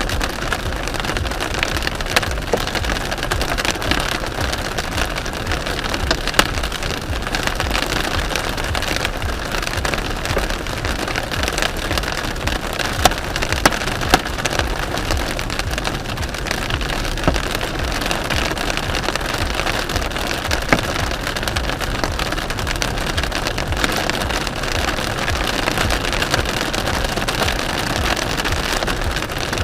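Hail and rain pelting a car, a dense steady patter with many sharp separate hits.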